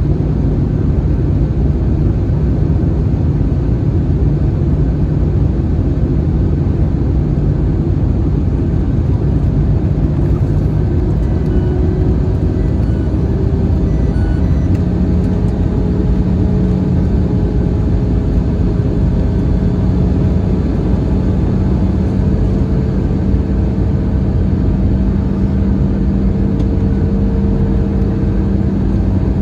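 Cabin noise inside an Airbus A321 in flight: steady airflow and engine noise heard from a window seat. Midway the engine hum changes, shifting to a slightly higher pitch as the power setting changes.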